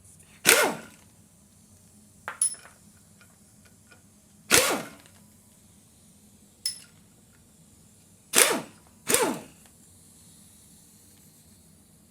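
Electric impact wrench run in four short bursts on the engine's bolts, each burst ending with the motor winding down in pitch. Fainter clicks of tool and metal handling come in between.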